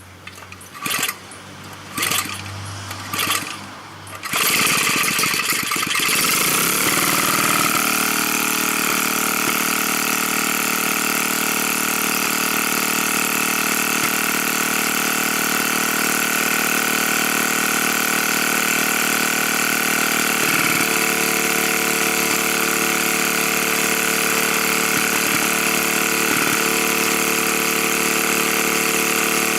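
Tecumseh engine of an old Craftsman 9-inch lawn edger pull-started on full choke and full throttle: three short pulls, then it catches about four seconds in and runs on steadily. It is being run for a couple of minutes to see whether its Lauson carburetor still floods and leaks after a new fuel line was fitted.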